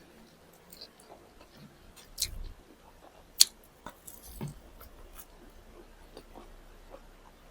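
A person chewing and biting food during a meal of chicken drumsticks and rice, with a few sharp clicks; the loudest comes about three and a half seconds in.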